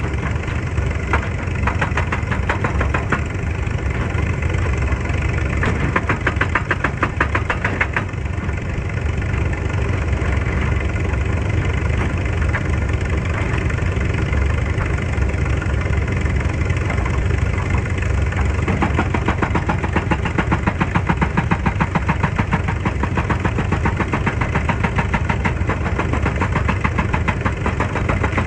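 Heavy diesel engine of an excavator running steadily, with a rapid even pulse and a deep rumble.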